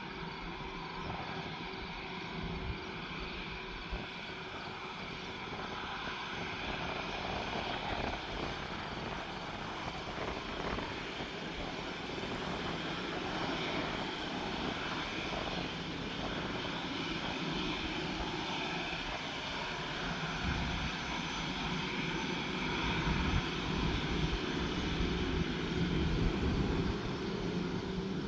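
Fixed-wing aircraft engines running steadily on a landing approach, growing gradually louder toward the end, with gusty wind rumbling on the microphone.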